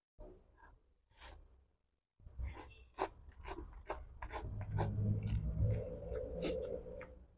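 Close-miked eating of fried instant noodles: wet chewing, slurping and sharp mouth clicks, coming thick after the first couple of seconds. A low steady hum runs under the chewing for most of the second half.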